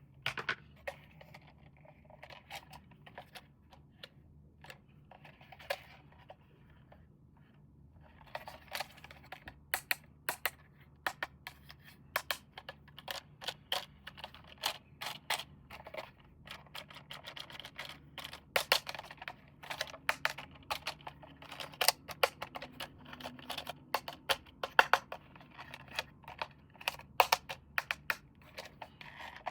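Hands handling plastic toy parts and packaging: irregular sharp plastic clicks and taps with light rustling, sparse at first and coming thick and fast from about a third of the way in.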